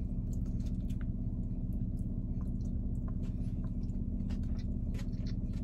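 Close-up chewing of food, with scattered small wet mouth clicks, over a steady low hum inside a car.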